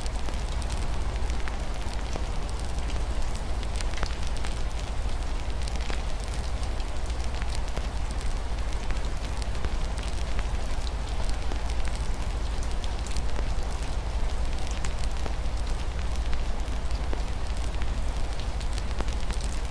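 Wood fire in a fireplace crackling, with scattered small pops over a steady low rumble, mixed with a steady hiss of rain.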